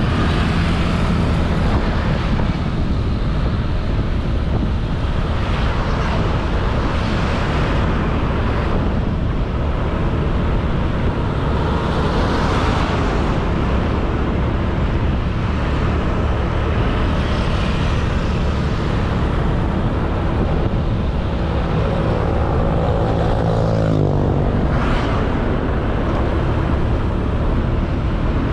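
Honda Beat 110cc single-cylinder scooter engine running steadily under way, mixed with a steady rush of wind and road noise. The engine pitch drops about three quarters of the way through as the scooter slows. Several louder rushes rise and fade along the way.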